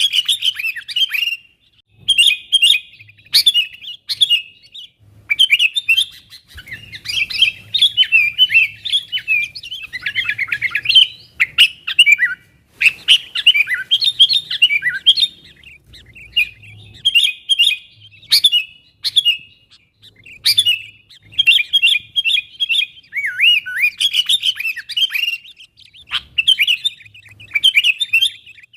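Sooty-headed bulbul (kutilang) calling busily to its companions: quick phrases of short chirping notes, each phrase a second or two long, with brief pauses between, a call used as a lure for wild bulbuls.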